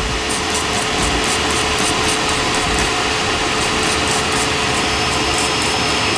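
Vacuum cleaner running steadily in blow mode, forcing air through a car's exhaust system to test it for leaks, with a constant hum over its rushing air.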